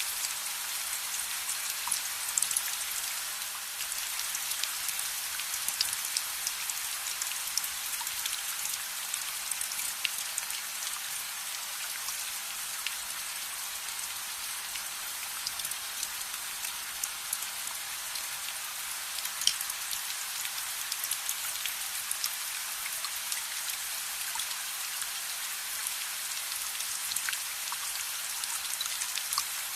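Steady rain, an even hiss with many scattered sharp ticks and pops throughout.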